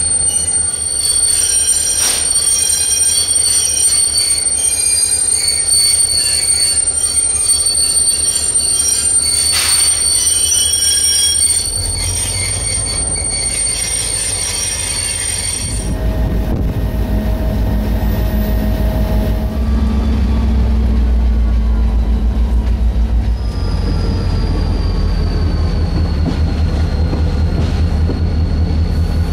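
Train ride on the QNS&L railway: steel wheels squealing high and steady on the rails, with two sharp knocks. About halfway through, the squeal stops and the sound changes to a low, steady rumble of the train running.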